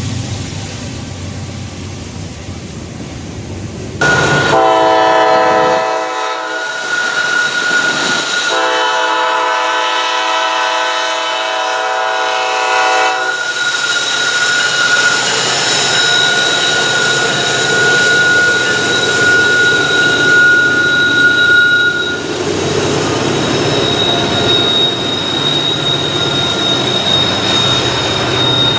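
Locomotive air horn sounding two blasts, a short one about four seconds in and then a longer one of about five seconds, as the train passes. After the horn the passing train keeps running with a steady high-pitched ringing over its rumble.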